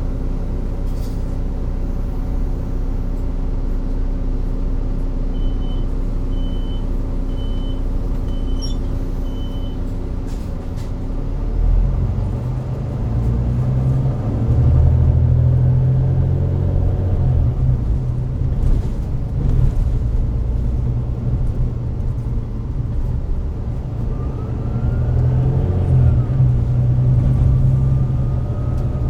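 Volvo D9B-310 diesel engine of a Volvo B9TL double-decker bus with a Voith DIWA gearbox, running steadily at first while a run of short high beeps sounds, then pulling away under load about twelve seconds in, its note growing much louder. Near the end a rising whine comes in over the engine.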